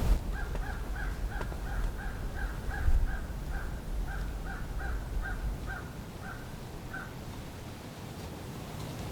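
A long, evenly paced series of turkey yelps, about two and a half notes a second, which stops about seven seconds in. Low wind rumble on the microphone underneath fades out partway through.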